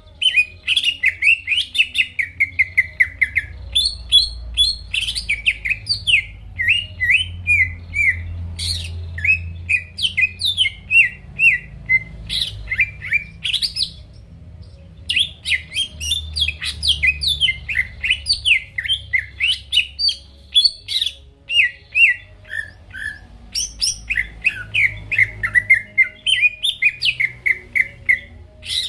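Cucak ijo (green leafbird) singing a fast, unbroken run of varied chirps and whistled phrases, the loud non-stop 'gacor' song used as a lure to set other songbirds singing. The song breaks off briefly about halfway through, over a faint low hum.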